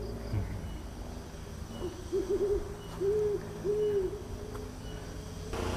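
A bird calling a low hooting phrase over and over: a quick wavering note, then two drawn-out hoots. Near the end a rushing noise rises.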